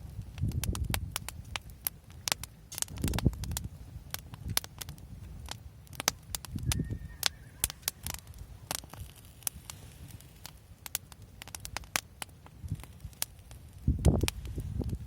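Backyard wood fire crackling, with irregular sharp pops and snaps throughout. A few low rumbles swell and fade, the strongest near the end.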